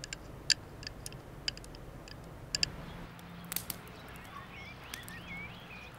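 Quiet outdoor background: a few scattered light clicks, then small birds chirping from about three seconds in.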